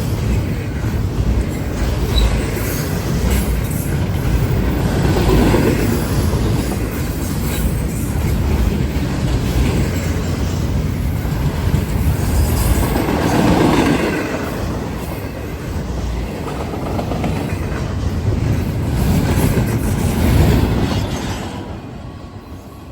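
A long freight train's cars rolling past: a steady rumble of steel wheels on rail with clickety-clack, swelling louder three times. The sound fades near the end as the last cars go by.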